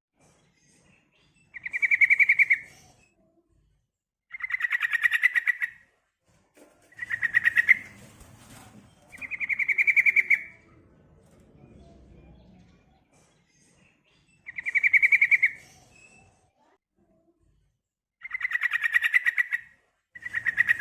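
Female yellow-vented bulbul (trucukan) calling to males: a fast, rattling, high trill lasting about a second. It repeats roughly every two to four seconds, seven times.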